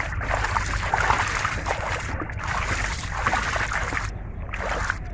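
Water splashing and sloshing in irregular stretches, with short pauses about two and four seconds in, over a steady low rumble.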